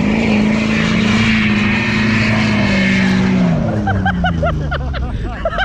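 Pickup truck engine revving hard and held at high revs while its tyres spin in snow, then the revs drop off about three and a half seconds in.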